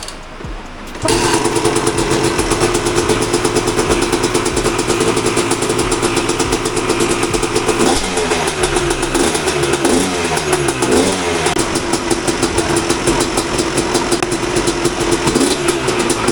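2001 Yamaha YZ250 two-stroke single-cylinder engine catching about a second in and running, on its first start after a full rebuild. It is blipped up and down a few times around the middle.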